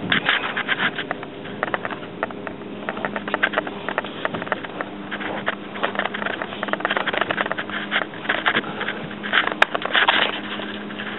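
Irregular scraping and rustling of a person shifting on the ground to get under a jacked-up car, with a sharp click about nine and a half seconds in.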